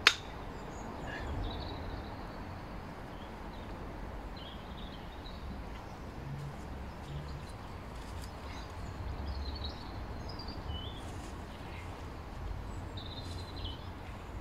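Small birds chirping now and then over a low outdoor rumble, with a single sharp click right at the start.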